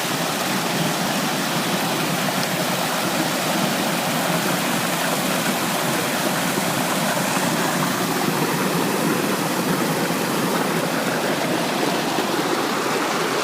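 Steady rushing of a large waterfall, Pistyll Rhaeadr, heard close up as a loud, unbroken roar of falling and splashing water.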